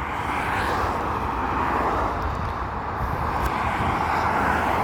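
Road traffic passing close by: a steady noise of tyres and engines with a low rumble underneath.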